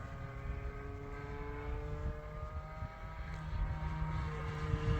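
A .40-size glow engine on an RC model plane running steadily in flight. Its pitch slides slowly down, then rises again near the end. Low wind rumble on the microphone sits under it.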